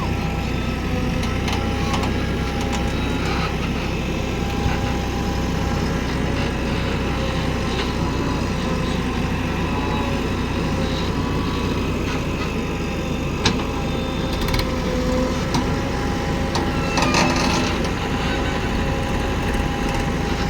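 Diesel engines of a JCB backhoe loader and tractors running steadily during earth digging, with a few knocks and clanks, the sharpest about thirteen seconds in and a short clatter near seventeen seconds.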